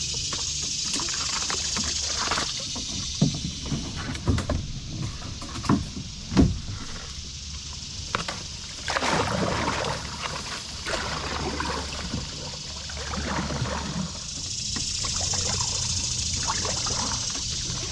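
Kayak paddle strokes: the blades dipping and splashing in the water, with a few sharp knocks between about three and seven seconds in, and a steady high hiss at the start and again near the end.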